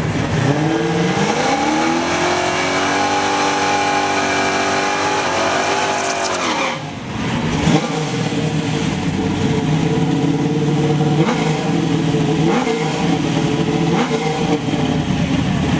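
Drag car's V8 engine revved up and held at high revs for several seconds, then let back down. After a break it runs at a low, lumpy idle with a few short throttle blips.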